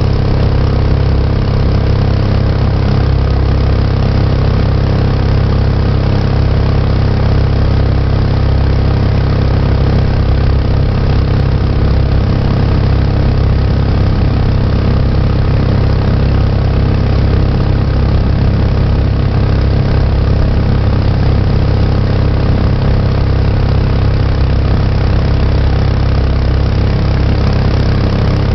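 Mokai jet boat's small gas engine running at a steady speed, loud and even throughout as the boat motors upriver.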